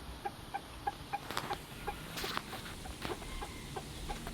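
Short, evenly repeated bird calls, about three a second, with a couple of louder, noisier sounds about halfway through.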